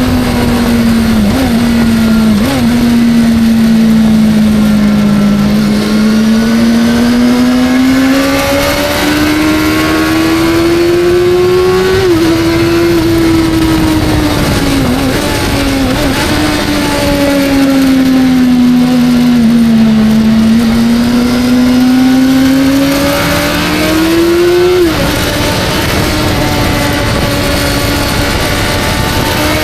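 Suzuki GSX-R sport bike's engine at speed on track, its pitch climbing slowly as it pulls and falling away as it slows, with quick drops at gear changes, over steady rushing wind noise.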